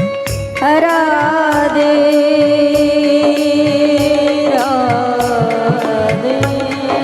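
Devotional kirtan music. A singer holds a long, wavering note that comes in just under a second in and slowly sinks, over a steady held tone. Hand-drum strokes with bending bass and a regular beat of small hand cymbals go under it.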